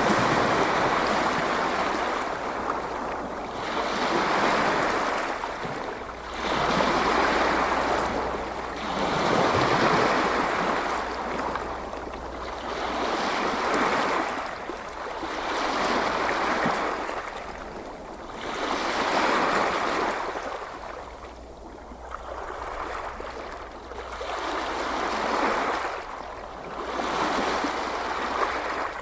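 Ocean surf washing in and drawing back: a steady hiss that swells and ebbs about once every two to three seconds.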